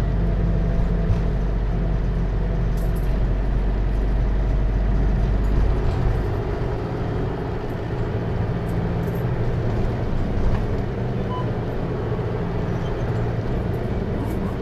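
Hino Liesse microbus with a J05C four-cylinder diesel and automatic transmission, heard from inside while driving. The engine hum and road noise are steady, and the deepest rumble drops away about six seconds in.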